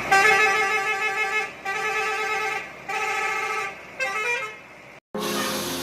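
Bus horn sounding three long, loud blasts, then a short phrase of changing notes. Music starts after a brief break near the end.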